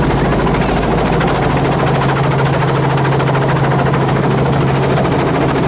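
Helicopter running steadily, its rotor giving a fast, even chop over a strong low hum, heard from aboard during the ride.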